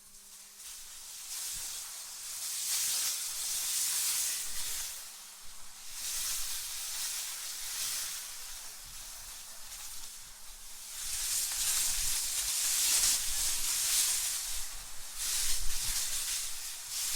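Wind blowing in gusts: a high hiss that swells and fades every few seconds, with a low rumble underneath.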